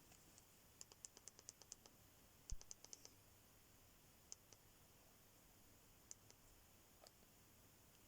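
Near silence with faint, sharp clicks: a quick run of about ten clicks about a second in, another short cluster with a soft thump a little later, then a few single clicks spaced apart.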